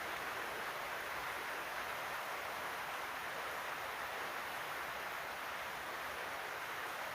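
Heavy rain pouring down, a steady, even hiss with no breaks.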